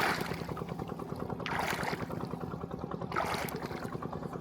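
A boat's motor humming steadily, with a splashing rush of water about every second and a half.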